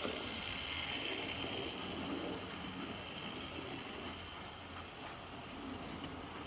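Model trains running round a model railway layout: a steady, even running noise, with a faint high whine that fades out about three seconds in.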